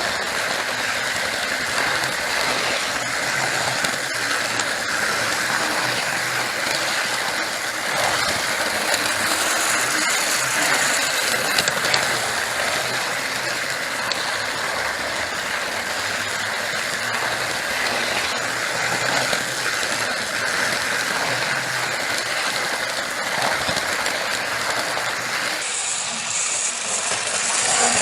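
OO gauge Mainline Railways 2251 class 0-6-0 model locomotive running on the layout: a steady electric motor and gear whirr with small clicks from the wheels on the track. The sound changes abruptly shortly before the end.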